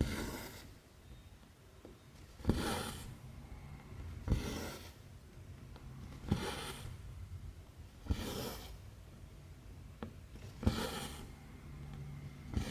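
Hand cross stitching on stamped cross stitch fabric: the needle ticks through the cloth and the thread is drawn through with a short rasping swish, about once every two seconds, six times.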